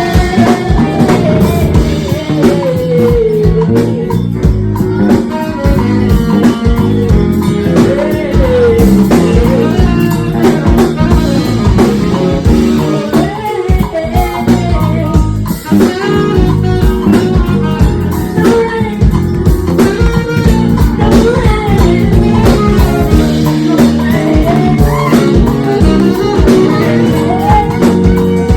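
Live band music: guitar and drum kit playing a bluesy groove, with a voice or lead line bending in pitch above it.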